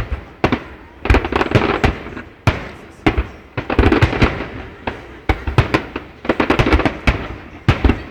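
Fireworks display going off: rapid volleys of sharp bangs and crackling, coming in clusters roughly once a second.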